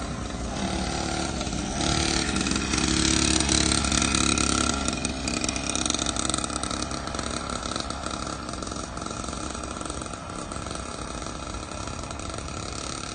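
Small dirt bike engine running, louder for a few seconds early in the stretch and then easing off as the bike rides on.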